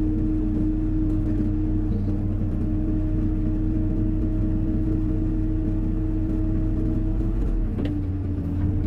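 Hyundai 140 wheeled excavator's diesel engine running at a steady, even pitch under work. Near the end the engine note dips slightly, with a single sharp knock.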